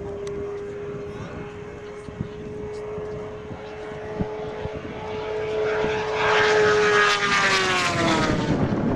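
Propeller aircraft flying past: a steady engine drone swells over several seconds, is loudest about seven seconds in, then drops in pitch as it passes.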